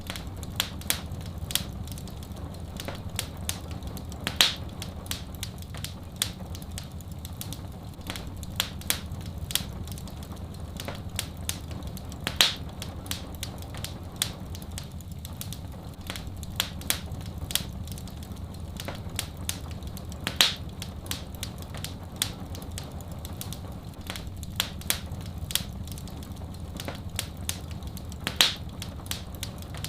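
Wood fire crackling in a fireplace: many small snaps, with a louder pop about every eight seconds, over a steady low rumble.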